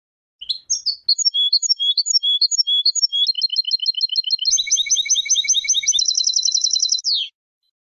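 European goldfinch singing one song phrase of about seven seconds. It is made of quick high repeated notes that grow denser and run into a fast trill near the end, finishing with a short downward slide.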